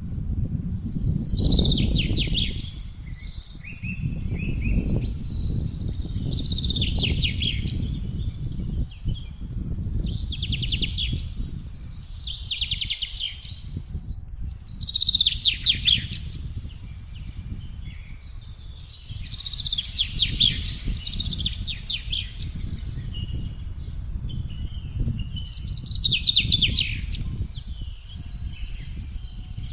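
Wind gusting with a low rumble that rises and falls, while songbirds sing short trilling phrases, about one every two to three seconds.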